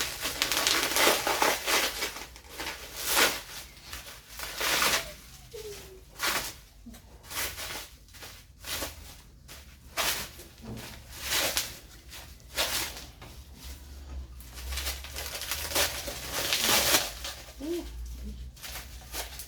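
Rustling and crinkling of packaging as bowls are unwrapped and handled, in a run of short, sharp bursts a second or so apart. A few brief, faint pitched sounds come in between.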